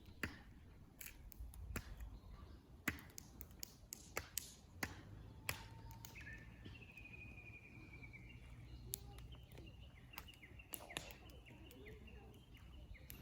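Faint campfire crackling: scattered sharp snaps and pops at irregular intervals. A thin, slightly falling whistle comes in about halfway through and carries on faintly.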